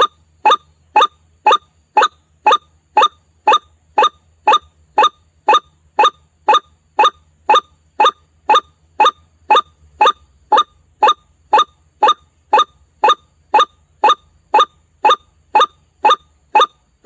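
White-breasted waterhen (ruak-ruak) calling. A short, sharp note is repeated at a very even pace, about twice a second, as in a lure-call recording.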